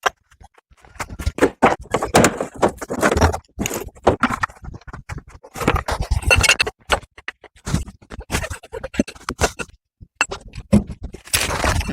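Irregular scrapes, clicks and knocks of hand work with tools and parts, in short bursts.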